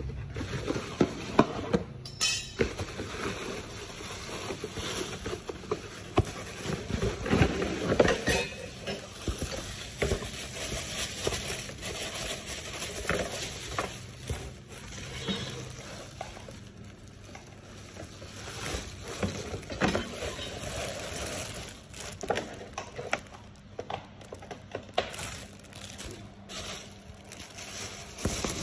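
Handling noise from working on a PAR LED light: irregular clicks, taps and rustling, with a few sharper knocks.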